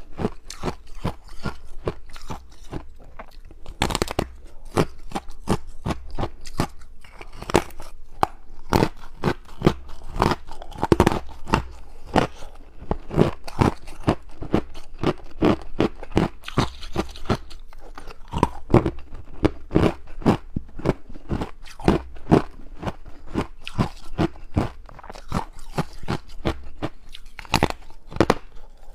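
Close-up crunching of ice being bitten and chewed, a rapid, irregular run of sharp cracks several times a second.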